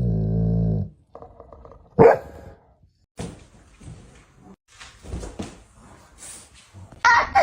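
A dog growling in a low, drawn-out rumble that stops abruptly about a second in, then a single loud bark about two seconds in, some scattered faint noises, and another loud, higher-pitched bark near the end.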